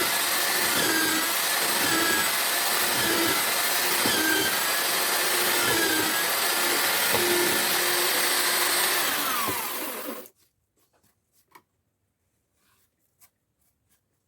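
Homemade drill-powered mortising machine running, with a whine that wavers a little in pitch. It is switched off about ten seconds in and winds down with a falling whine, followed by a few faint clicks.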